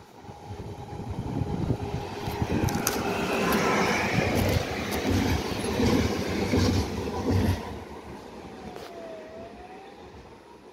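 Electric multiple unit passing at speed on the main line: a rumble with a rhythmic clatter of wheels that builds as the train approaches, is loudest while it passes close by, then falls off sharply at about seven and a half seconds. A faint whine dips and rises in pitch near the end.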